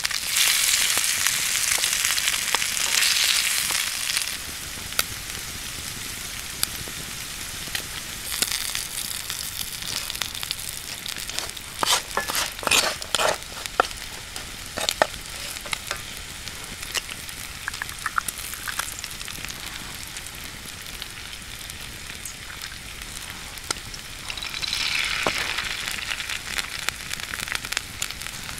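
Bacon and diced potatoes frying in hot bacon fat in a skillet: a steady crackling sizzle, with a wooden spatula stirring the food. The sizzle swells louder for the first few seconds and again near the end, with a run of sharp clicks and pops about halfway through.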